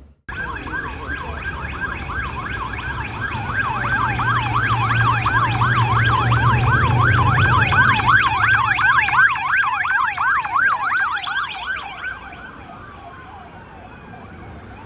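Emergency vehicle siren in a fast yelp, its pitch rising and falling about three to four times a second, growing louder to a peak about halfway through with a low engine rumble under it, then fading away. Near the end a slower wailing siren begins.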